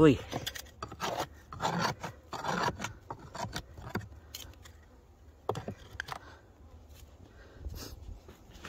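Irregular scraping and rubbing as snow is dug and brushed away from beehive entrances, in short strokes.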